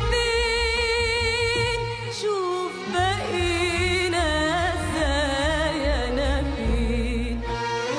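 Arabic singing: a voice holding long, wavering ornamented notes that slide between pitches, over instrumental backing with a steady bass.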